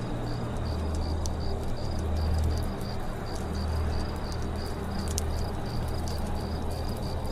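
Crickets chirping in a steady rhythm, about three to four chirps a second, over a crackling campfire with scattered sharp pops and a low steady rumble.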